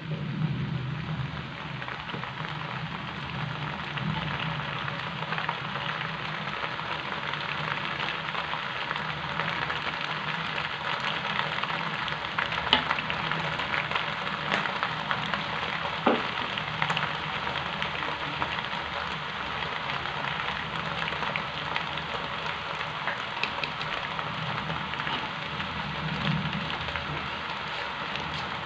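Macaroni frying in a wok with a steady sizzle as it is stir-fried, with a few sharp clinks of the metal spatula and ladle against the pan.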